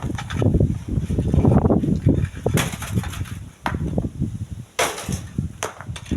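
Strong wind buffeting the microphone, a gusting low rumble that swells and drops, with a few short sharp clicks.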